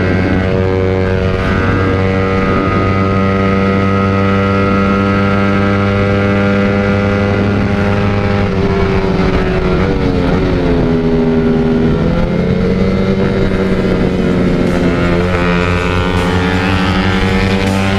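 Motorcycle engine with an aftermarket exhaust running under way, holding a steady pitch, then easing off and pulling up again about halfway through, with another climb near the end.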